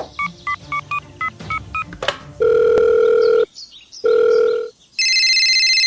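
Telephone call being placed: a quick run of keypad beeps as a number is dialled, then two long ringback tones, then a phone's electronic ring starting near the end.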